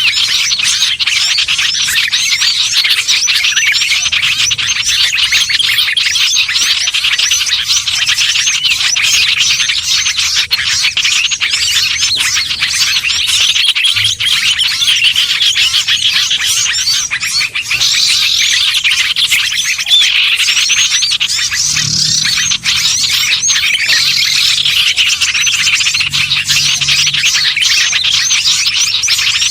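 Dense chorus of many small songbirds calling at once: rapid, overlapping chirps, twitters and short trills with no break. It is a bird-lure recording made to draw small birds in.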